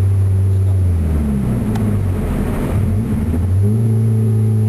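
Mazda Miata's four-cylinder engine droning through an open exhaust with no muffler, holding steady revs. About a second in the revs sag and waver as if off the throttle, then come back to the same steady drone a little after three and a half seconds.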